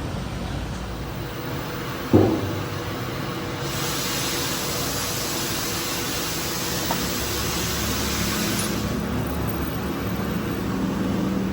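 Workshop noise: a steady low machine rumble, with one sharp knock and a short ring about two seconds in, and an even hiss lasting about five seconds in the middle.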